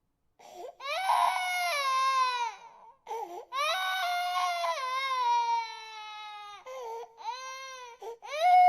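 Infant crying: long wailing cries that fall in pitch, broken by short gasping breaths, about four cries in all.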